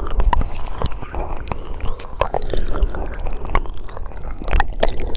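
Close-miked ASMR mouth sounds: a stream of irregular wet clicks, smacks and pops from the lips and tongue.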